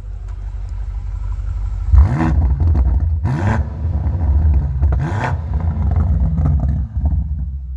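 2020 BMW M8's twin-turbo V8 running at idle, then revved in three quick blips about two, three and a half and five seconds in, the exhaust rising and falling with each. The first blip is the loudest.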